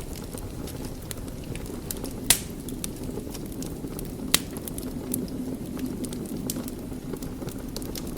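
Wood fire crackling in a fireplace: a steady low rumble of flame with scattered small crackles, and two sharp pops from the burning logs about two and four seconds in.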